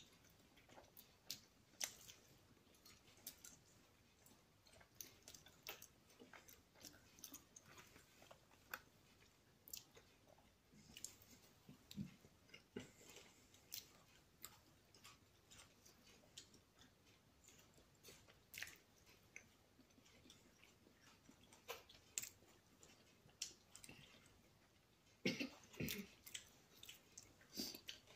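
A person chewing a soft fried apple fritter: faint wet mouth clicks and smacks scattered throughout, with a louder cluster of them about three seconds before the end.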